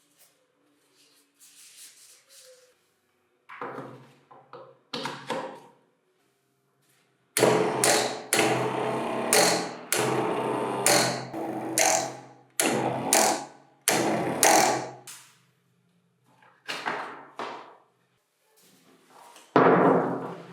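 A series of loud percussive hits, each with a ringing tone that dies away, coming thickest in the middle and again near the end.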